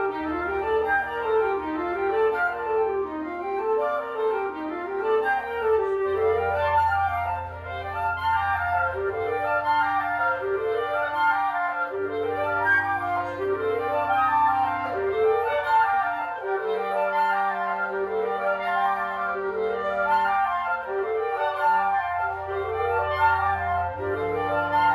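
Woodwind quintet playing live: quick, repeating up-and-down runs in the flute and clarinet range over long held low notes that change every few seconds.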